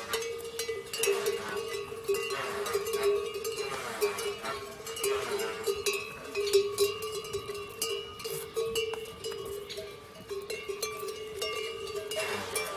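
Cowbells clanking and ringing over and over, with many uneven knocks on top of a steady ringing tone.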